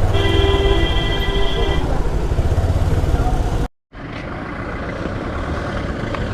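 Motorcycle riding noise: heavy wind buffeting on the microphone over the engine, with a vehicle horn sounding for under two seconds near the start. About three and a half seconds in, the sound cuts off abruptly and gives way to a quieter, steady road and crowd background.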